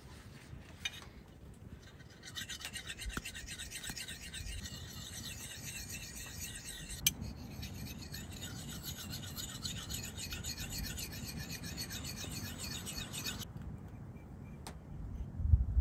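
Continuous rasping scrape that starts about two seconds in and cuts off sharply near the end, with one sharp click about halfway through.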